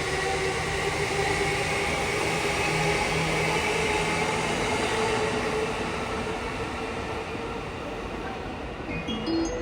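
Electric commuter train running alongside the platform, a steady rumble with a hum of motor tones that eases slightly toward the end. Just before the end, a short rising series of chime tones sounds.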